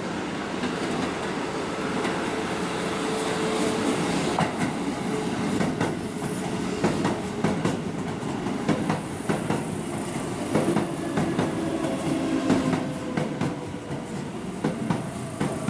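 Keihan electric train running through the station, its wheels clacking over rail joints in a quick, uneven run of clicks from about four seconds in, with brief wheel squeal later on.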